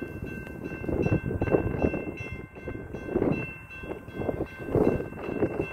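Distant approaching freight train led by a GE Dash 9-44CW diesel locomotive, under an uneven, gusting rumble from wind on the microphone, with a few faint steady high-pitched tones throughout.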